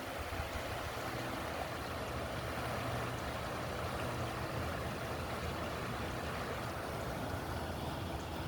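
River water running steadily, with a low steady hum underneath.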